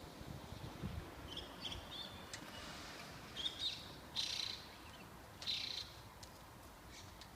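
A bird chirping: several short, high calls, faint.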